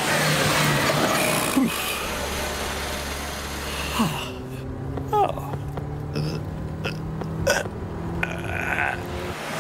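Cartoon sound effects of a small car's engine running steadily; a deeper part of the engine sound drops away about four seconds in. A few short, rising vocal grunts from the driver come over it.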